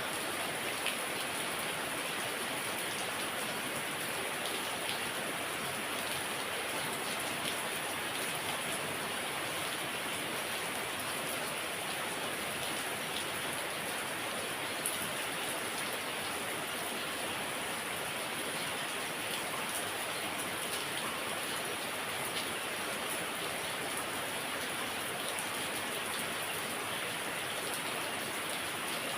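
Heavy rain falling steadily, an even hiss of rain with occasional faint drop ticks.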